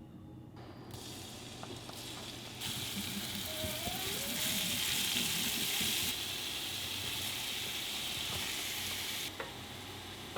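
Food sizzling in a hot frying pan, starting about a second in, growing louder and then dropping back near the end.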